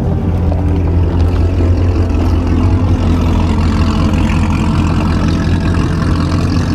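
A car engine running steadily at low revs, its low note strongest.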